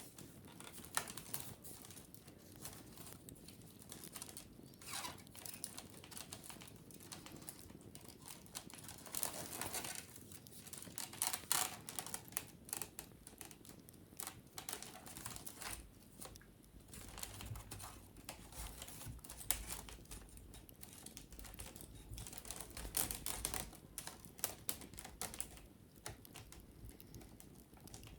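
Wicker basket being scratched and tapped while it is cleaned: irregular dry clicks and crackles, with a few denser scratchy stretches.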